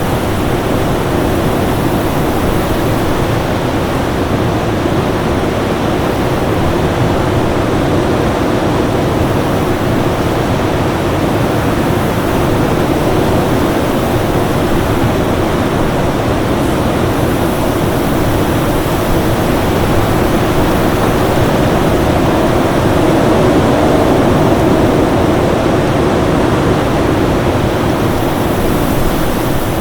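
Winter storm wind blowing as a dense, steady rush that swells slightly about three-quarters of the way through, with a faint steady tone underneath.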